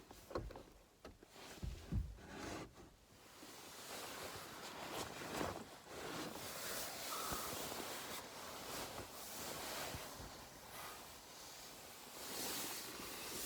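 Fabric and gear rustling as bedding is handled, with a few soft thumps and knocks in the first couple of seconds.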